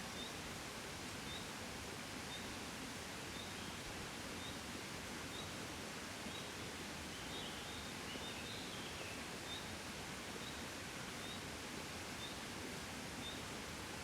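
Gentle wind blowing steadily as an even, soft hiss. Faint short high chirps repeat about once a second, with a brief run of falling chirps around eight seconds in.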